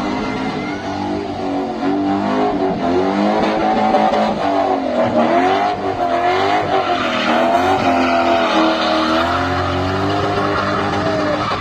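A V8 engine in a BMW 325i revving hard, its pitch rising and falling repeatedly as the throttle is worked, with tyre squeal under it.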